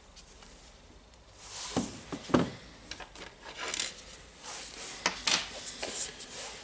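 Small metal rotary-hammer parts being handled and set down on a workbench: irregular clinks, taps and rubbing scrapes, starting about a second in.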